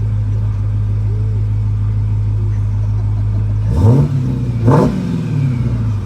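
Dodge Challenger SRT Hellcat's supercharged 6.2-litre HEMI V8 idling steadily, then revved twice in quick throttle blips about a second apart a little past halfway, each climbing and falling back to idle.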